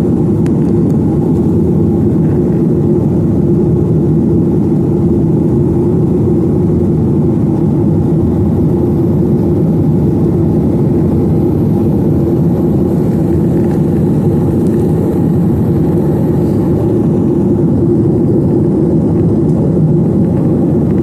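Steady roar of a Boeing 737-900ER's CFM56 jet engines and airflow heard inside the passenger cabin, an even low drone with a constant hum and no change in pitch or level.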